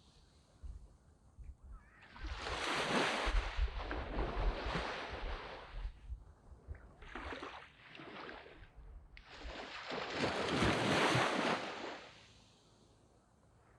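Waves breaking on a sand beach and washing up the shore. One surge comes about two seconds in and lasts several seconds, a shorter one follows near the middle, and another breaks sharply around nine seconds in before fading to a lull.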